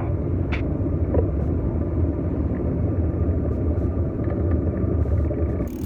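Aircraft overhead making a steady low rumble, with a faint steady higher tone; the sound turns brighter and thinner abruptly near the end.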